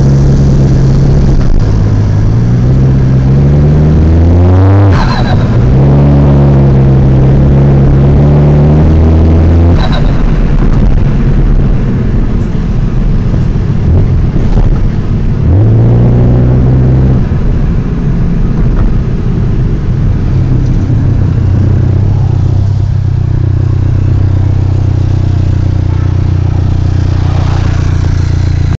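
Car engine revved in steps and let fall back, given a short blip of the throttle, then idling. The noise from the engine bay is one the owner likens to pigeons cooing.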